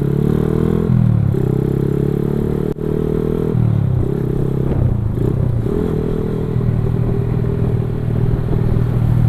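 Motorcycle engine pulling through the gears: its pitch holds high, then drops at each of three gear changes, and after the last one it runs steadily at a lower pitch.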